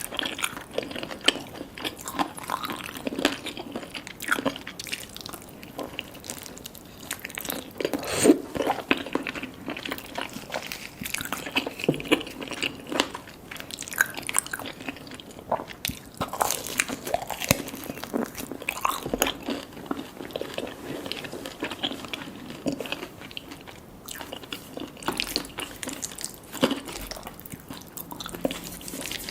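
Eating crispy fried chicken and spaghetti: repeated bites and chewing with irregular crisp crunches throughout.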